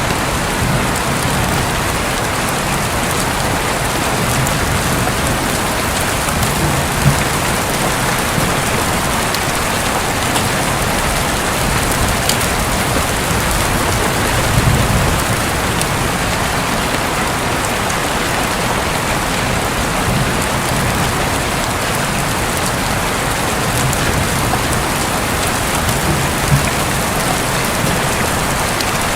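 Heavy rain falling steadily on a roof, a dense even patter, with a few brief low thumps or rumbles, the longest about halfway through.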